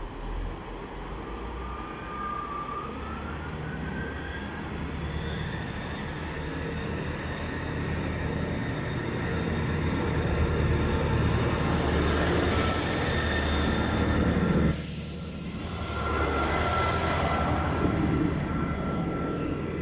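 Passenger train moving through a station: a steady low engine rumble with whining tones that rise in pitch in the first few seconds as it gathers speed, growing louder toward the middle. About 15 s in the sound changes suddenly to a steadier whine over the rumble.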